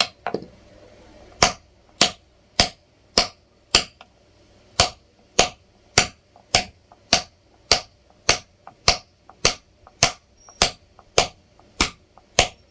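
Hammer striking a chisel in a steady rhythm, about one and a half sharp metallic blows a second after a short pause near the start, chiselling a flower pattern into a masala mixer's grinding surface.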